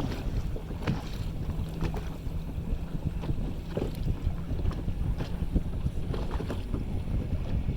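Motorboat under way: a steady low engine and hull rumble, with irregular splashes of water against the hull and wind buffeting the microphone.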